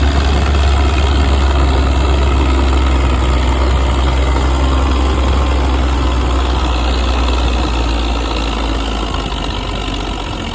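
Oliver 88 tractor engine running steadily with a deep low hum, slowly growing quieter over the last few seconds.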